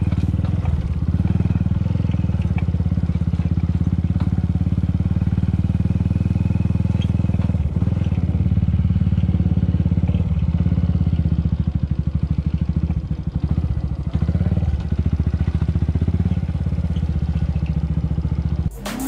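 Motorcycle engine running at a steady speed, with a fast, even beat of firing pulses. It stops abruptly near the end.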